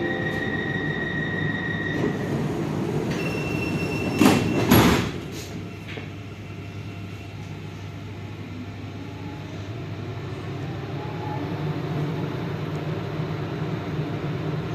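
Metro train at a station: a steady door-warning tone sounds, then the doors shut with two loud knocks about four and a half seconds in. The train then starts to pull away, with a steady rumble and a faint rising motor whine.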